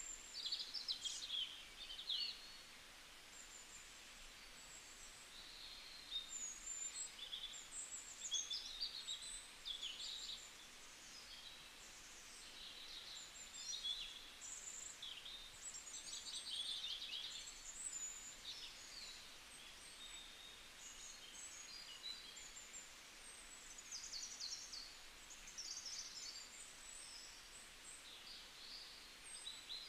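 Small birds chirping and trilling faintly in the background, in scattered short high-pitched calls with brief quiet gaps between them.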